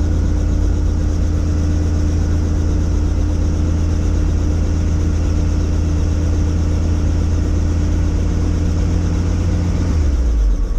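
Helicopter engine and rotor noise heard in the cabin: a steady, loud drone with a low hum. Shortly before the end the low hum drops and shifts.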